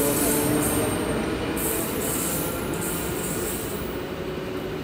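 Electric multiple unit running away along the platform, its wheels squealing in repeated high-pitched bursts over the rumble of the running gear, fading as it recedes.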